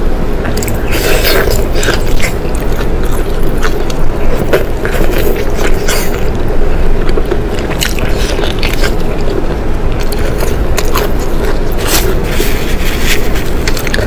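Close-miked eating: biting into and chewing braised pork tail, many short clicks and mouth smacks over a steady low background hum.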